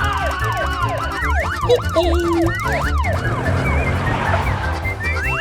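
Police siren in a fast yelp, quick falling wails about three a second, that stops about three seconds in and gives way to a hissing whoosh. A low steady beat runs underneath.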